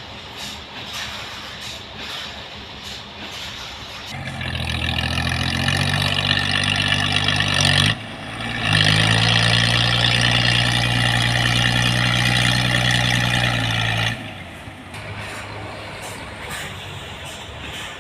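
A heavy engine-driven machine starts up and runs loud and steady for about ten seconds, with a brief drop near the middle. It cuts off suddenly, leaving a lower background rumble.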